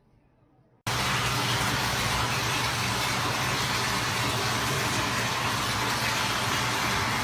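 Steady mechanical running noise with a low hum underneath, starting abruptly about a second in after near silence.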